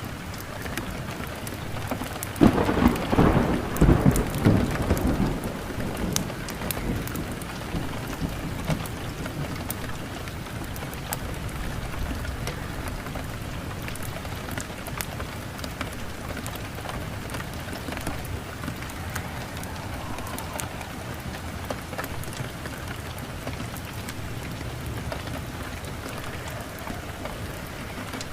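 Steady rain falling, with a low rumble of thunder rolling for a few seconds about two and a half seconds in.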